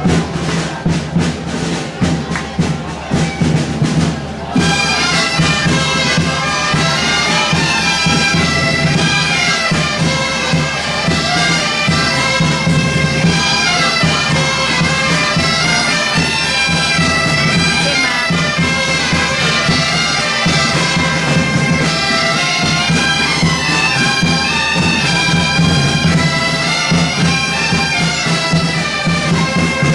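Bagpipes playing a tune over their steady low drone, the melody filling out and getting louder about four seconds in.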